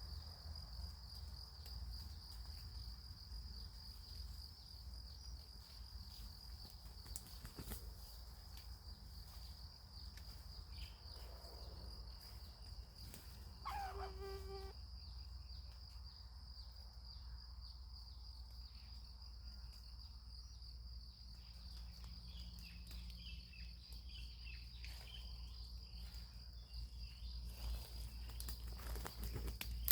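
Steady high-pitched insect chorus droning without a break, with one short pitched animal call about halfway through.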